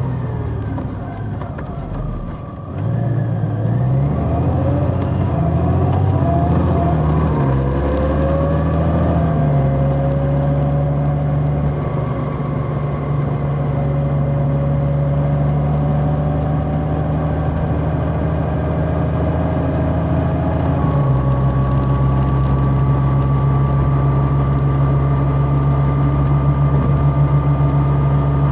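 Large motorcycle engine heard while riding. The revs rise and drop through gear changes in the first ten seconds, then settle into a steady cruise with a slowly climbing pitch. The note steps again about twenty-one seconds in.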